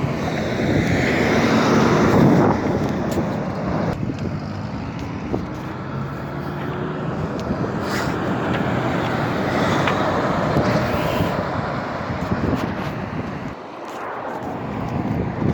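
Road traffic: vehicles driving past on the road, a rush of engine and tyre noise that swells as one passes about two seconds in and another around ten seconds in.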